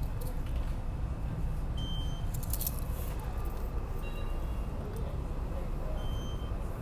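Steady low rumble of a SEPTA regional rail passenger car running, heard from inside the car, with a brief clatter about two and a half seconds in.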